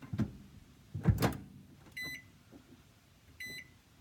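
Microwave oven being closed up and set: a couple of sharp clunks, then two short high keypad beeps as the cooking time is entered.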